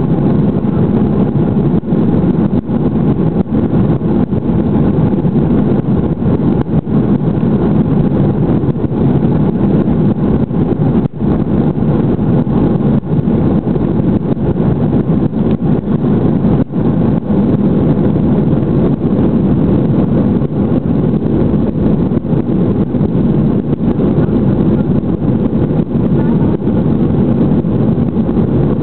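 Airliner cabin noise during takeoff: a loud, steady drone of the jet engines and rushing air, heaviest in the low range.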